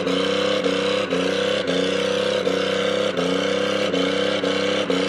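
Car engine running roughly, its pitch surging up and falling back about every half second, with a click at each surge, while it leaks oil.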